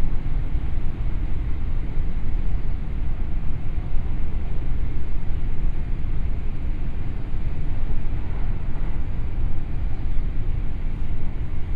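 JR West 521 series electric train running through a tunnel, heard from inside the passenger car: a steady, loud low rumble of wheels on rails.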